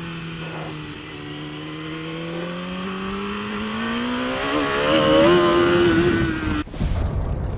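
Race motorcycle engine heard onboard, its note holding steady, then climbing slowly in pitch as the bike accelerates and levelling off. Nearly seven seconds in the engine note cuts off abruptly, giving way to a low rumbling rush of noise.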